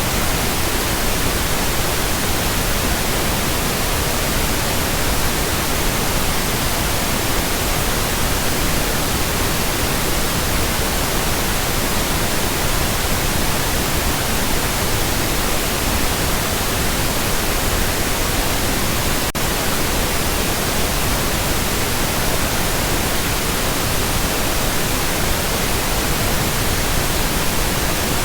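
Steady pink noise: an even, unchanging hiss across the whole range of pitch, with one momentary dip about two-thirds of the way through.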